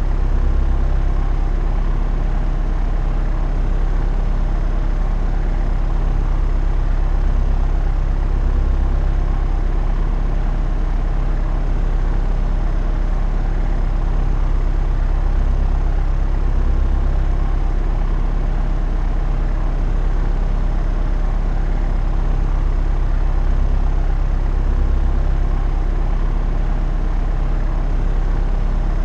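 Propeller aircraft in cruise flight: a steady engine-and-propeller drone with a deep hum, as heard inside the cabin.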